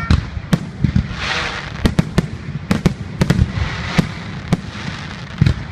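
Aerial fireworks display: a rapid, irregular series of sharp bangs, about a dozen in under six seconds, over a continuous low rumble, with a brief crackling hiss about a second in.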